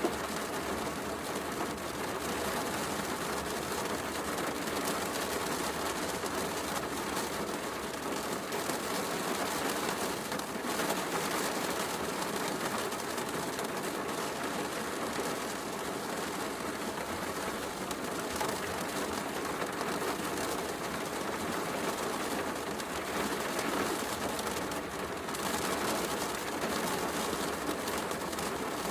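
Steady heavy rain mixed with a crackling wood fire, running at an even level with fine crackles scattered through it.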